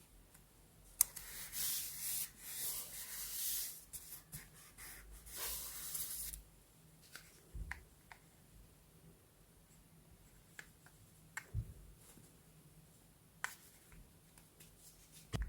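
Paper being rubbed and handled on a desk: a sharp click about a second in, then bursts of scratchy rustling for about five seconds, followed by scattered small taps and clicks.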